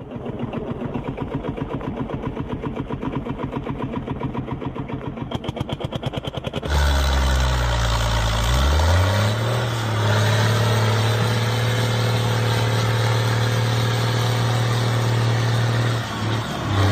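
Engine chugging at a fast, even beat. About seven seconds in, it gives way abruptly to a louder, steady engine drone whose pitch glides before settling.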